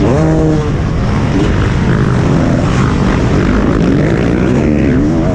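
Motocross bike engine at racing speed, heard from the rider's helmet: the revs climb sharply at the start, then the engine note rises and falls with the throttle through the turn, climbing again near the end.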